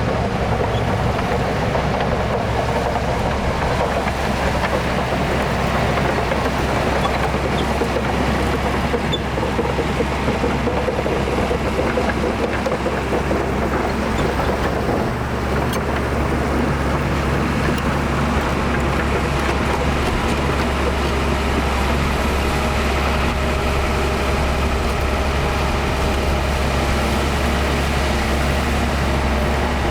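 Diesel engine of heavy earthmoving machinery running steadily, a continuous low drone with no breaks.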